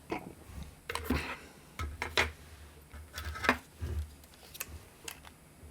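Small plastic and circuit-board parts being handled: a series of short clicks, taps and knocks with dull low thumps, fewer near the end.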